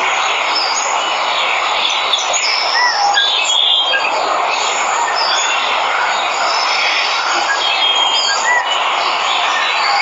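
A steady rush of falling water from a waterfall, with birds chirping and whistling over it in short, scattered calls.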